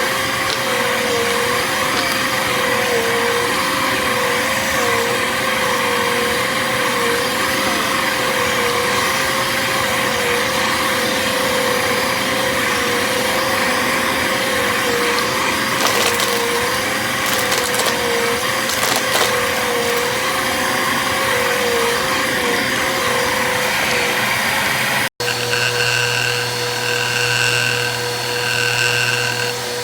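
Bissell vacuum cleaner running steadily, its motor whine wavering slightly, with crackling as foil confetti is sucked up. About 25 seconds in the sound cuts off for an instant and comes back with a changed tone.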